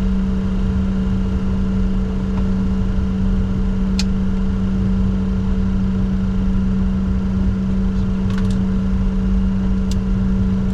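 Steady cockpit noise of a Bombardier Challenger 604 on the ground: a strong, constant low hum over a rumble, with a few faint short clicks about four, eight and ten seconds in.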